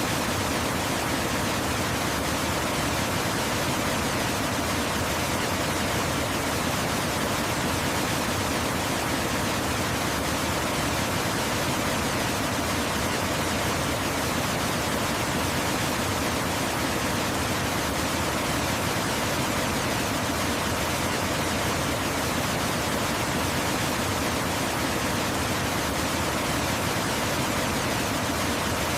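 Waterfall: a steady, unbroken rush of falling water, even from low to high pitch with no splashes or changes.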